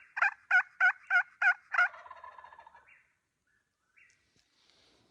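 A turkey calling: a run of about ten evenly spaced notes, roughly three a second, that stops about two seconds in.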